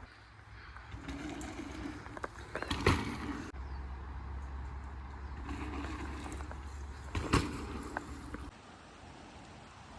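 Bicycle riding on a dirt trail: steady tyre and wind noise, with two sharp knocks, one about three seconds in and one just past seven seconds.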